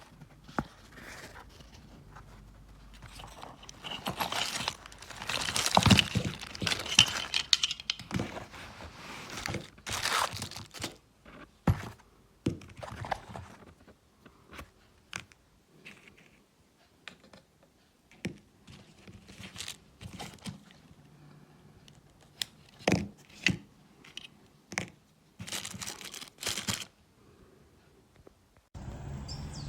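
Handling noises: rustling and crinkling with scattered clicks and knocks. About a second before the end a steady low hum starts.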